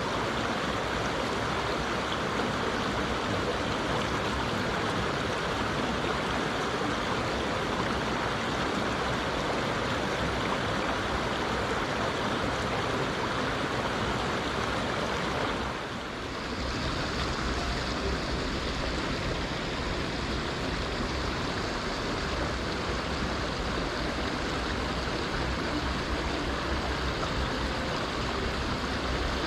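Mountain stream rushing steadily over rocks. About halfway through the sound dips briefly, then goes on with a deeper low rumble.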